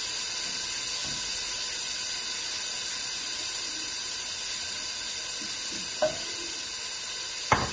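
Chopped onion, garlic and tomato paste sizzling steadily in hot olive oil in a stainless steel pot, with a sharp knock near the end.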